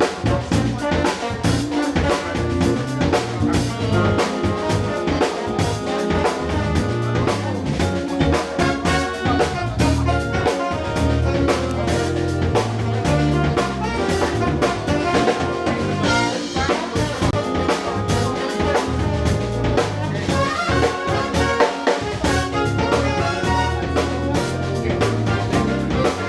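Live band playing with drum kit and a brass section of trumpet and trombone, with a steady beat throughout.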